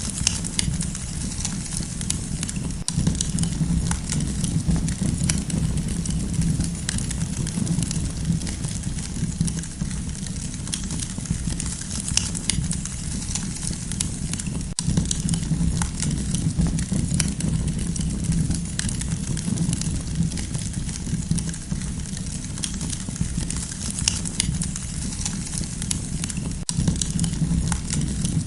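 Wood campfire burning, crackling with irregular sharp pops and snaps over a steady low rush of the flames.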